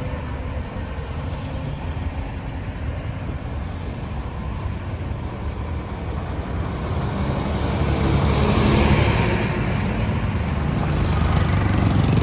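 Road traffic: a steady rumble of engines and tyres, swelling as a vehicle passes closer about two-thirds of the way through and rising again near the end.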